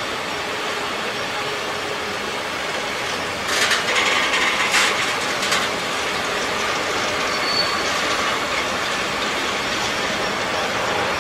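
Freight train of container-carrying flat wagons rolling past, a steady noise of wheels on rail. A burst of clattering comes about four seconds in, with a brief high wheel squeal a little later.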